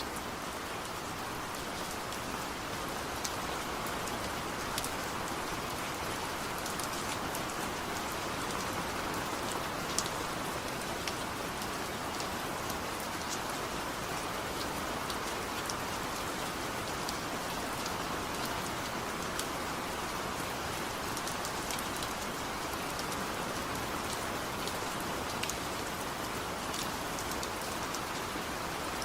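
Steady rain falling, an even hiss with scattered individual drops ticking sharply on a surface; no thunder.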